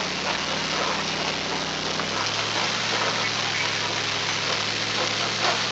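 Rain falling steadily on and around an open-sided safari truck, with the truck's engine running underneath; the engine note drops lower about two seconds in.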